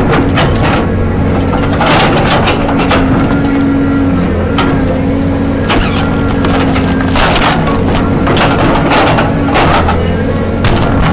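A heavy machine's engine running steadily while wood cracks and splinters again and again in short clusters.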